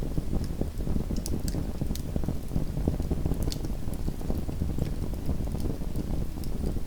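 Small wood fire burning in a fireplace: a steady low rumble of flame with scattered sharp crackles and pops from the burning wood.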